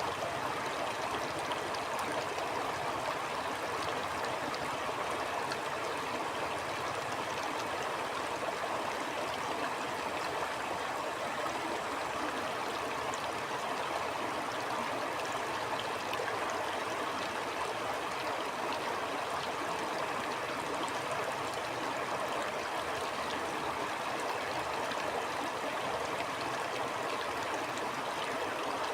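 Flowing stream: a steady, even rush and babble of water over stones, with faint small splashes scattered through it.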